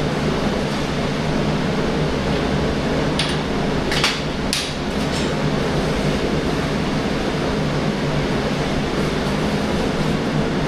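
AC TIG welding arc on aluminium, buzzing steadily, with a few sharp clicks or taps about three to five seconds in.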